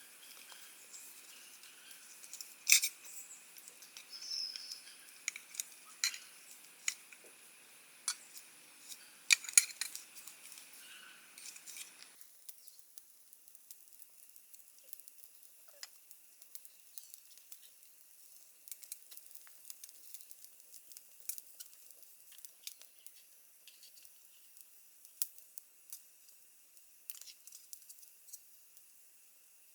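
Irregular sharp clicks and taps of small objects being handled, over a faint steady high-pitched tone. The background hiss drops out abruptly about twelve seconds in, and the clicks continue more sparsely after that.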